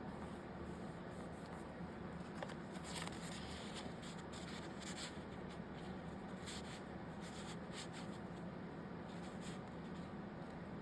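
Paper being handled, slid and rubbed down on the desk: soft scratchy rustles come and go, mostly in the middle stretch, over a steady low hum.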